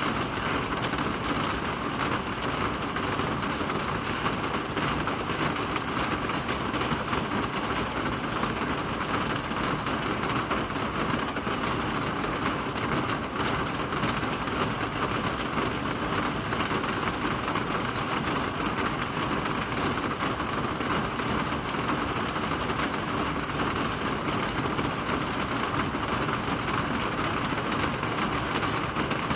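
Steady rain falling: an even, unbroken hiss of many drops that neither builds nor eases.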